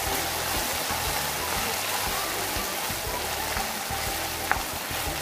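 Sliced taro root (arbi) sizzling steadily as it fries in hot oil in a kadhai, stirred with a spatula. A single sharp click comes about four and a half seconds in.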